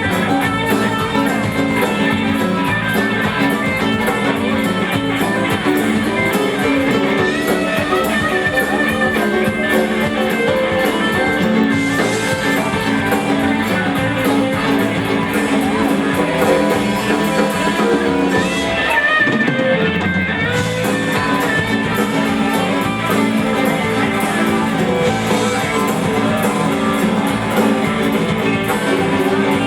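Live rock band playing an instrumental passage led by guitar over drums and bass, without vocals. The bass drops out briefly a little past the middle.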